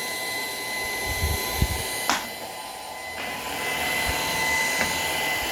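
Shark PowerDetect IP1251 vacuum running with a steady high whine and hiss. There is a sharp click about two seconds in, then the sound drops for about a second and comes back up.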